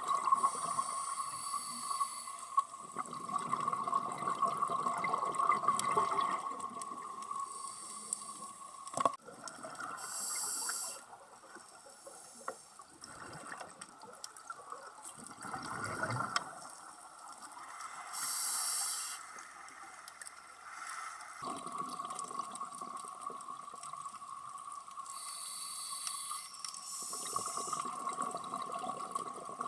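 Scuba diver breathing through a regulator underwater: stretches of rushing breath alternate with short bursts of exhaled bubbles about every eight seconds, over a steady hum.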